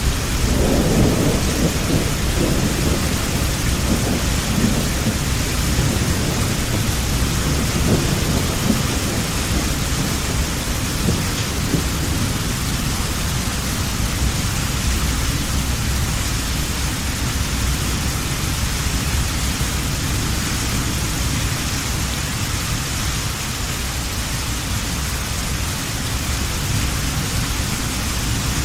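Heavy rain falling steadily, with a long roll of thunder rumbling through the first part and dying away about halfway through.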